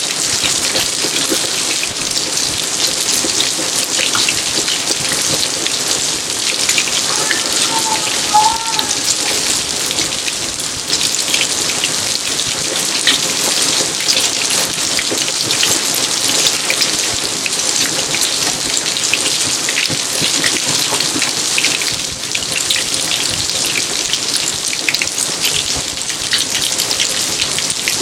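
Steady rain falling in a garden: an even hiss with many distinct drops striking close by.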